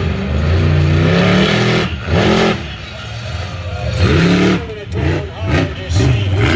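Monster truck engine revving hard, its pitch climbing and falling again and again in quick bursts.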